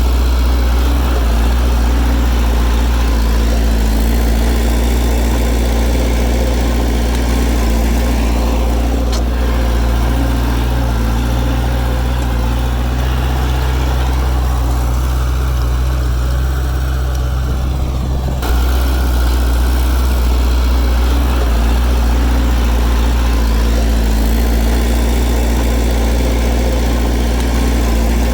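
Bulldozer's diesel engine running with a steady low drone. It eases off for a few seconds past the middle and comes back suddenly about two-thirds of the way through.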